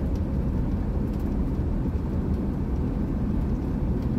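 Old diesel camper van driving, heard from inside the cab: a steady low engine and road rumble with no change in pace.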